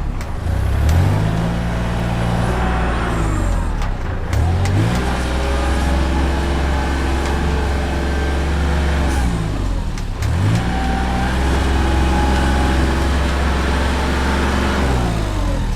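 Large diesel engine of heavy earth-moving machinery working under load, its pitch dropping and climbing back again four times as it revs down and up.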